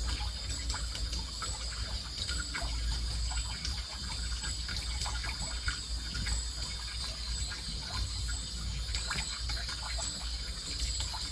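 Water trickling and splashing steadily, over a low rumble, with a steady high-pitched drone and scattered small clicks.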